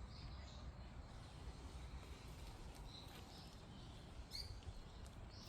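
Faint outdoor ambience: a few short, high bird chirps, spaced a second or more apart, over a steady low rumble.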